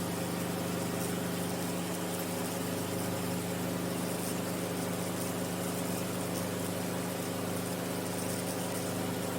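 Enstrom F28F helicopter's four-cylinder piston engine and rotors running under power with a steady, even drone, climbing out on a go-around after a practice autorotation.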